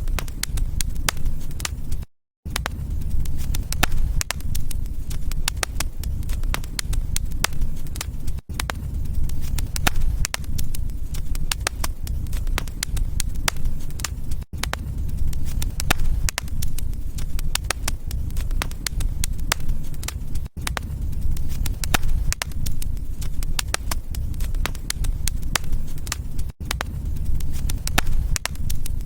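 Wood fire crackling and popping in a fireplace: a dense, irregular run of sharp pops over a steady low rumble of the flames. The sound cuts out for a moment a little after two seconds in, with very brief dips about every six seconds after that.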